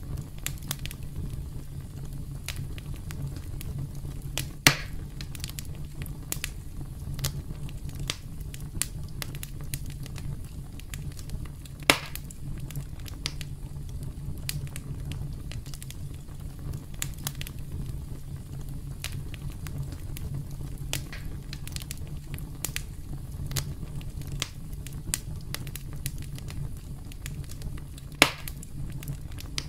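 Campfire crackling: a steady low rumble of burning wood with frequent small crackles and three louder pops spread through.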